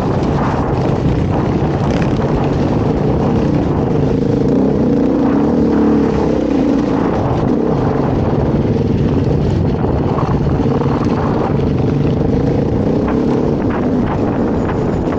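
Beta dirt bike engine running while riding, its pitch rising and falling as the throttle is opened and closed.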